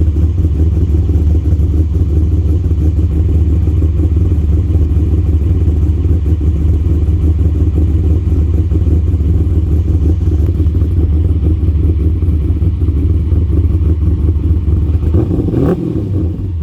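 LS1 5.7-litre V8 with an aggressive 238/247-duration, 112° lobe-separation camshaft, idling after a cold start with an uneven lope. There is a brief rising sweep and a knock near the end.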